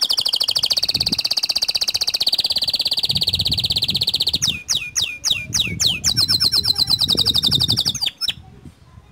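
White domestic canary singing: a long, very fast high trill, then a run of about half a dozen quick downward-sweeping notes, then another fast trill that stops shortly before the end.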